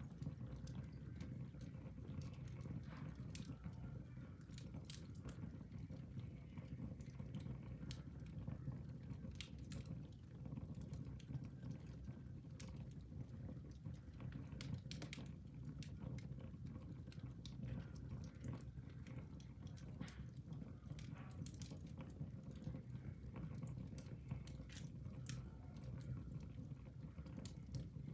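Fire burning in a fireplace, crackling: irregular sharp pops and snaps over a steady low rumble.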